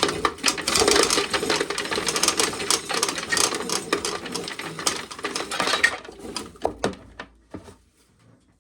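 Corn sheller running, with a dense, rapid clatter of ears and kernels going through it. It stops about six seconds in, leaving a few scattered clicks.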